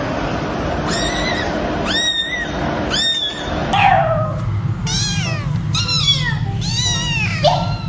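A cat meowing repeatedly: three high, drawn-out meows in the first half, then, after an abrupt change about halfway, a quick run of shorter falling meows over a steady low hum.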